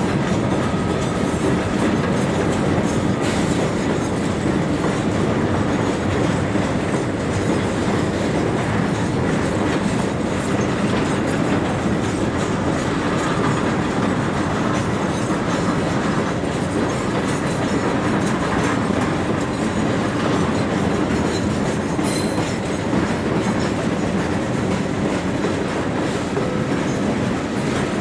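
Freight train's wagons rolling steadily past, the wheels clicking over the rail joints with a continuous rumble, and a brief metallic squeal about three-quarters of the way through.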